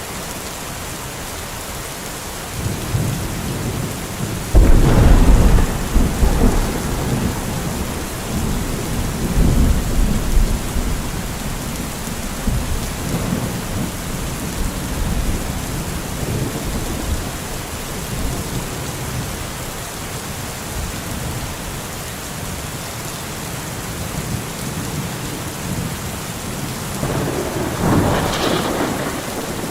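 Steady heavy rain with a thunderstorm. About four and a half seconds in, a sudden loud thunderclap breaks into rumbling that rolls on for several seconds, and a second crackle of thunder comes near the end.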